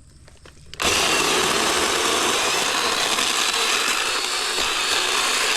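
Cordless battery-powered saw starting about a second in and running steadily at full speed, cutting through a tree branch.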